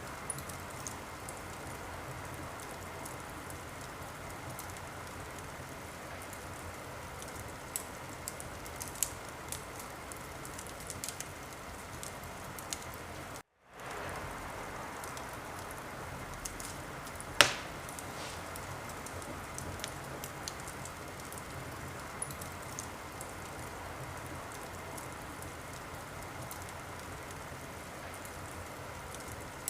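Wood fire in a fireplace crackling: a steady hiss with scattered small pops and one much louder pop a little past halfway. The sound cuts out for a moment near the middle.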